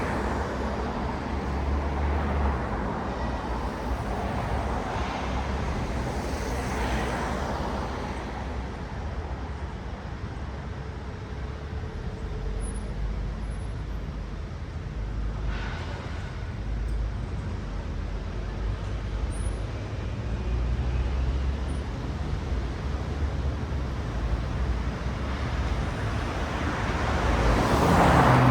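Road traffic: a steady low rumble of engines and tyres, with cars passing one after another, the loudest one near the end.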